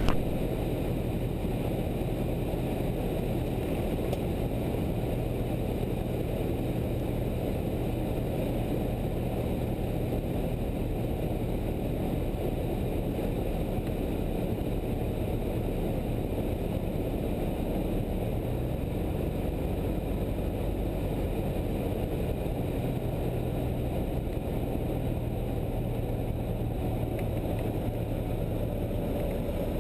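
Cessna 172's piston engine and propeller droning steadily in the cockpit, with air rushing past, a low even hum with no change in pitch.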